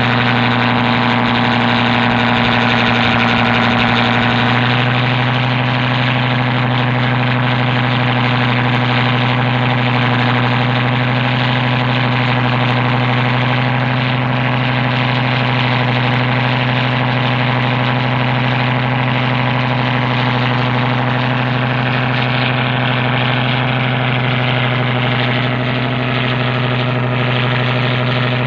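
A boat's engine running steadily, with a slight drop in pitch about four and a half seconds in.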